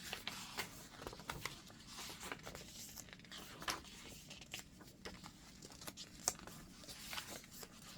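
Paper pages of a chunky handmade junk journal rustling and crinkling as they are handled and turned, with scattered soft ticks and taps.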